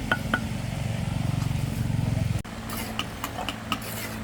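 A motor running with a low, evenly pulsing rumble that cuts off abruptly about two and a half seconds in, with light knocks and clicks scattered through it.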